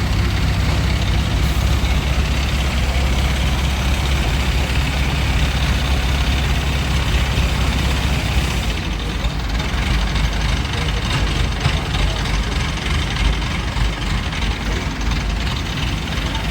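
Heavy diesel engine running steadily, as of the Hydra cranes working the lift. About halfway through, its steady low hum gives way to a rougher, noisier rumble.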